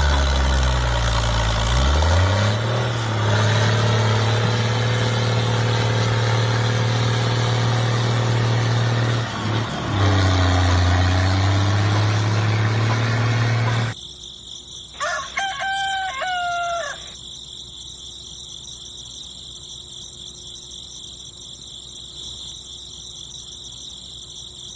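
A motor or engine running loudly, rising in pitch as it spins up, dipping briefly about two-thirds of the way through, then cutting off suddenly. In the quieter hiss that follows, a rooster crows once.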